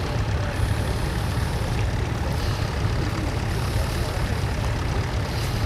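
Vintage tractor engine running steadily with a low, even throb.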